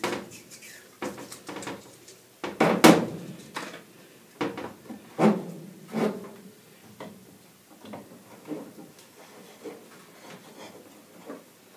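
Irregular knocks and clunks of gas pipe fittings and tools being handled. The loudest knock comes about three seconds in.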